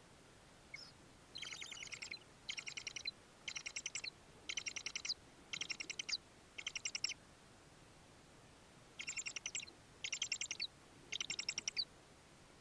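A bird calling: nine short, rapid, chattering trills, about one a second, with a pause after the sixth.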